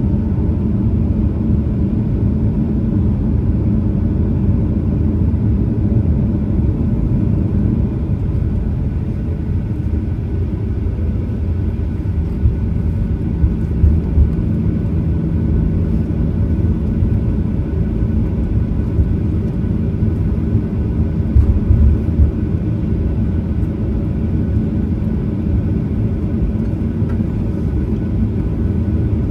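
Cabin noise inside a Boeing 737-900ER: its CFM56-7B engines running steadily under a loud, low rumble. There are a few brief low thumps partway through.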